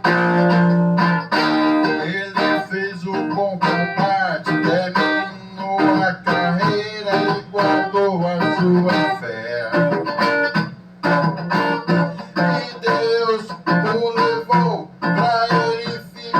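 Instrumental passage of a gospel song: a guitar playing a lead melody over a steady backing accompaniment.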